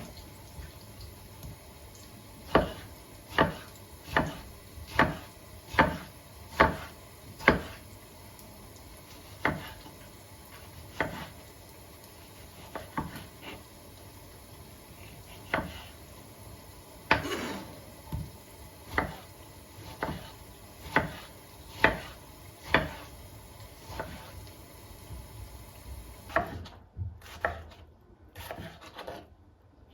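Kitchen knife chopping on a wooden cutting board: single sharp strokes in a slow, even rhythm a little over one a second, then more irregular cuts, with a few lighter clicks near the end.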